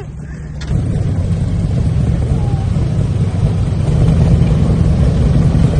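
A car engine running with a deep, steady rumble that comes in suddenly about a second in.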